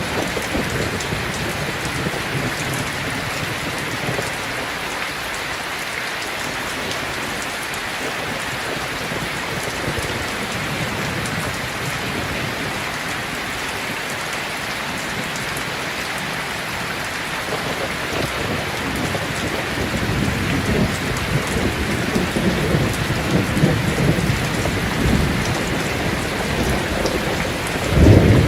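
Steady heavy rain. Rolling thunder comes in over the second half, growing louder toward a strong low rumble at the very end.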